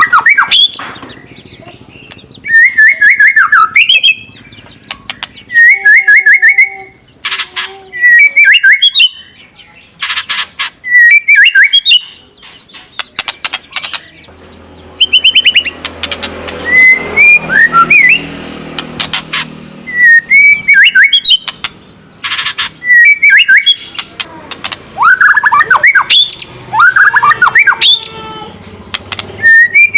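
White-rumped shama giving loud, harsh rattling 'kretekan' calls in repeated short bursts, mixed with brief whistled phrases.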